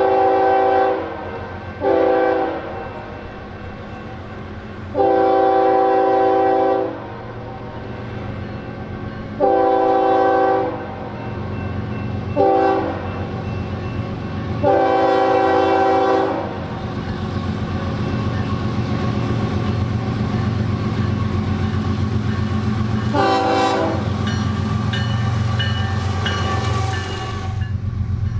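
Diesel locomotive's multi-chime air horn sounding a series of blasts, the last four in the long, long, short, long grade-crossing pattern. After that the approaching BNSF train's rumble grows steadily louder, with one short horn note about 23 s in.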